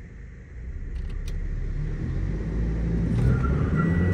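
Toyota Innova Crysta's 2.8-litre four-cylinder turbo-diesel, heard from inside the cabin, revving up as the car launches hard from a standstill in power mode, its low rumble growing steadily louder.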